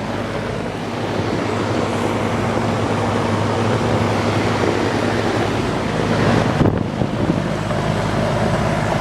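A 1982 GE Executive 2-ton central air conditioner's outdoor unit running: a steady low compressor hum under the even rush of the condenser fan.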